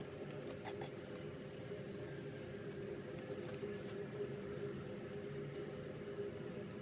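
Faint steady low hum, with a few faint clicks in the first second and again about three seconds in.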